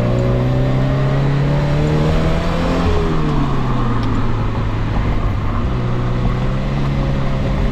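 Car engine idling steadily. The revs dip slightly about three seconds in, then hold level.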